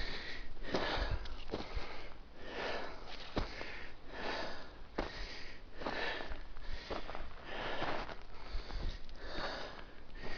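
Heavy, even breathing of a hiker labouring up a steep slope, a quick breath in or out about every second.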